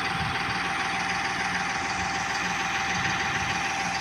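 New Holland 5630 tractor's diesel engine running steadily at low revs, a fast even chug with a thin steady whine over it.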